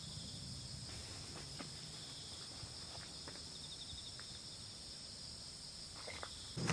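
A steady, high-pitched chorus of insects chirring, with a few faint scattered ticks.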